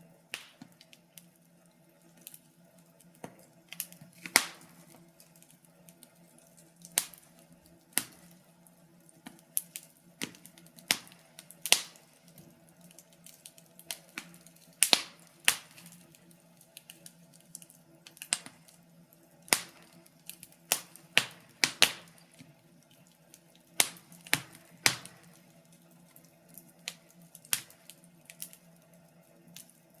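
Wood fire crackling: irregular sharp pops and snaps, a few every couple of seconds, over a faint steady low hum.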